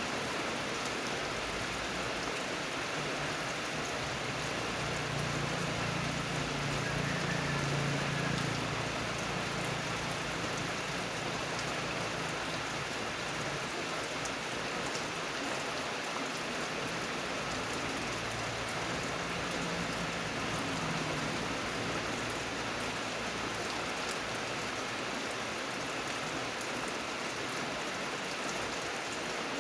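Steady rain falling and pattering on surfaces. A low rumble underneath swells for a while from a few seconds in, is strongest shortly after, then fades out in the second half.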